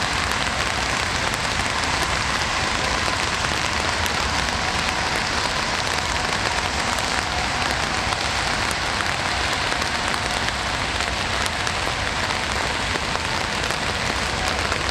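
Steady rain falling and pattering on a surface, a dense even hiss with scattered individual drop ticks.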